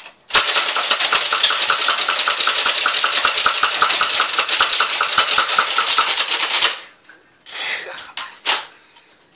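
Motorized Nerf blaster firing on full auto: a steady motor whir with darts clacking out about four or five a second for some six seconds as the magazine is emptied, then it stops. A few short clatters follow near the end.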